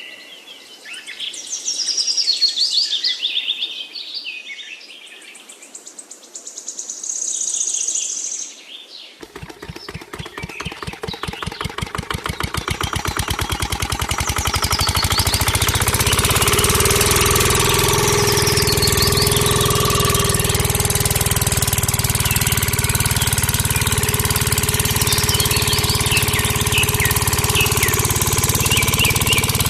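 Birds chirping, then about nine seconds in a miniature engine starts: its firing pulses speed up and grow louder over several seconds and settle into a steady, fast run with birds still chirping faintly above it.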